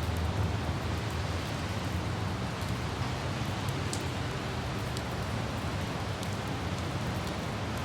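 Steady rain falling on city streets, with the low rumble of light traffic beneath it, a little stronger in the first second, and scattered drips ticking.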